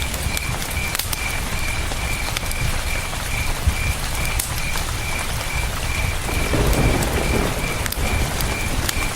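Campfire crackling, with sharp scattered pops, over the steady rush of a river, while a cricket chirps at an even pace about three times a second. The rushing swells briefly a little after two-thirds of the way in.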